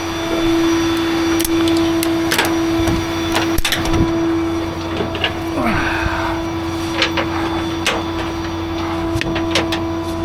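Rollback tow truck's hydraulic system running with a steady whine and low hum, over scattered sharp metal clanks and clicks from loading and securing the vehicle on the bed.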